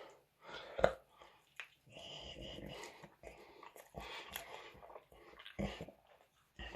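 Someone eating a chicken wing close to the microphone: chewing and mouth sounds with scattered small clicks, the sharpest just under a second in.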